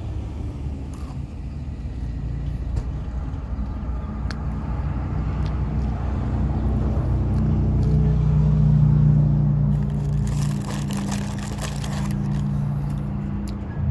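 A motor vehicle's engine running close by over a steady traffic rumble. Its low hum swells to its loudest about eight or nine seconds in, then eases off.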